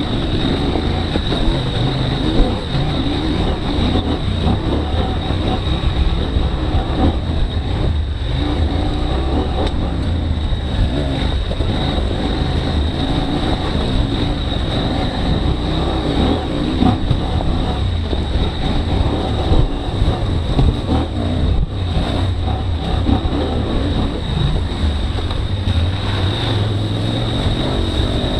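KTM 790 Adventure R's parallel-twin engine running on a rocky dirt trail, its note rising and falling unsteadily as the throttle changes.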